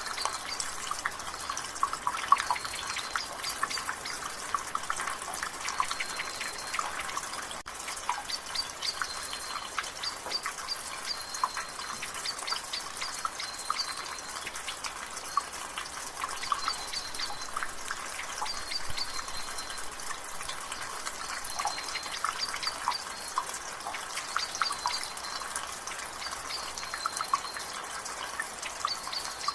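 Water dripping from a rain gutter: a fast, irregular patter of drops over a light drizzle hiss. A bird repeats a short high note every second or two.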